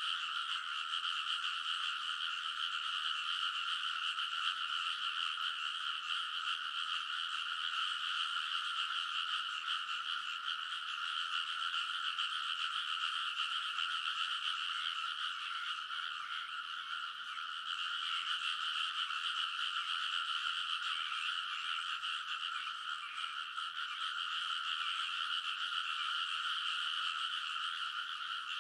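A dense chorus of rice-paddy frogs calling all at once: a continuous wall of overlapping high croaks with no breaks, easing a little twice in the second half.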